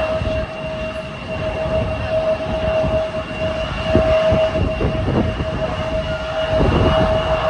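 Jet airliner engines running steadily: a constant whine over a low, uneven rumble that swells a little about four seconds in and again near the end.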